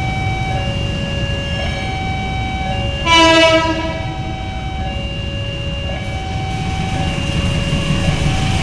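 Diesel locomotive hauling a Pertamina tank train gives one short horn blast about three seconds in, over the low rumble of the train. An electronic warning signal alternates steadily between two tones throughout.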